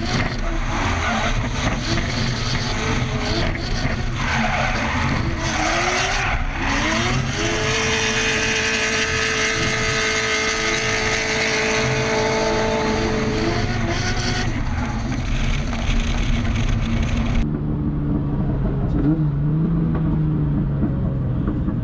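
Drift car's 1.5JZ inline-six revving up and down, then climbing and holding high revs with tyre squeal through a drift. About seventeen seconds in, the sound changes abruptly to a duller, steadier engine note.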